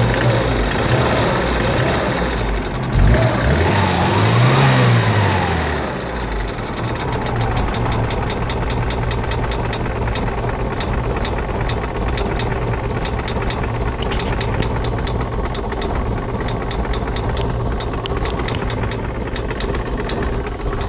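Steyr-Puch Pinzgauer engine revved up and down a few times, then settling to an idle with a fast, even rattling clatter.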